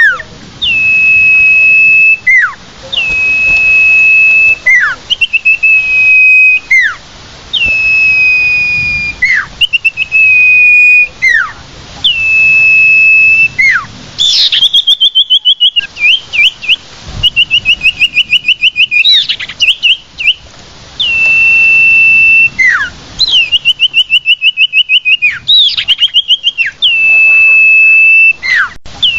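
Common iora (sirtu/cipoh) lure-call recording: a long, steady whistle held on one pitch for over a second, each ending in a quick downward slur, repeated over and over. Three times it breaks into a rapid trilled run of short notes.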